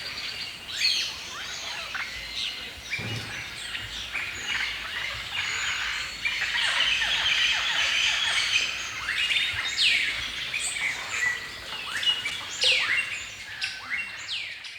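A forest chorus of several songbirds singing and chirping at once, with many quick downward-sweeping notes that thicken about halfway through. A brief low thump comes about three seconds in.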